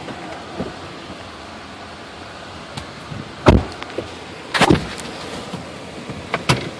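Inside a car's cabin: a steady low hum, a car door thumping shut about halfway through, then a quick run of knocks and a few clicks as the driver settles in.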